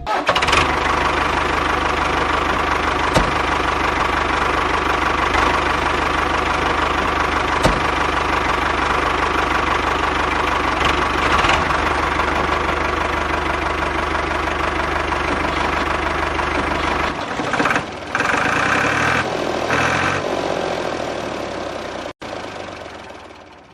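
An engine running steadily at idle with an even low drone. About three-quarters of the way through the sound changes, losing its low hum, then fades away near the end.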